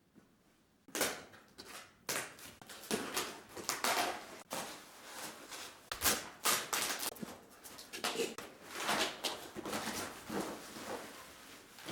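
Irregular rustling, scraping and light knocks of packaging and stiff plastic moulding strips being handled, starting about a second in.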